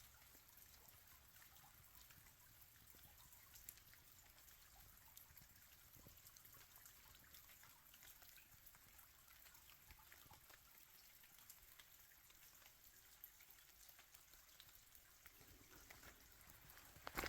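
Faint steady rain, with scattered light drops ticking now and then.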